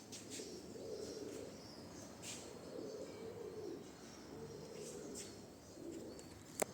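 Domestic pigeons cooing over and over in low warbling phrases, with faint high chirps above them. A single sharp click near the end.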